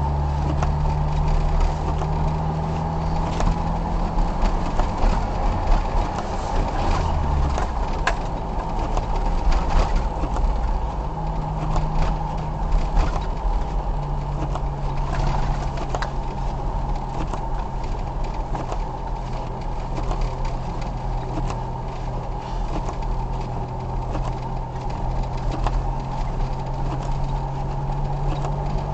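Car being driven on snowy roads, heard from inside: a steady engine hum that shifts pitch a few times, with a low road rumble and scattered small clicks and knocks.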